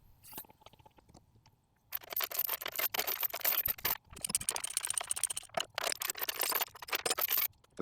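Dense crackling, scraping and rustling right at the microphone, starting about two seconds in and lasting about five and a half seconds: handling noise from the camera being moved and rubbed.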